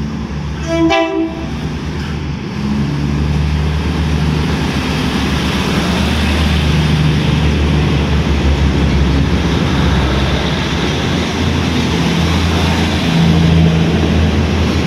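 An SRT train sounds its horn once, briefly, about a second in, then runs by with a steady low rumble that grows louder and peaks near the end.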